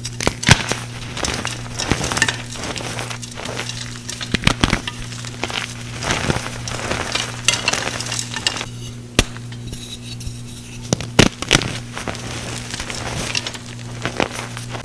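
Pressed blocks of gym chalk and re-formed calcium carbonate being crushed and crumbled: irregular crisp crunches and snaps with a few sharper cracks, over a steady low hum.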